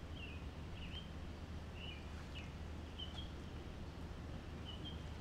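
Songbird chirping among trees: short high chirps about twice a second, over a faint steady low hum.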